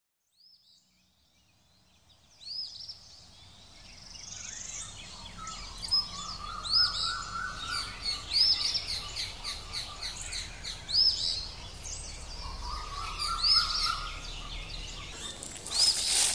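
Wild birds calling, fading in from silence over the first few seconds: a high arching chirp repeated every second or two, with two spells of quick, lower warbled notes.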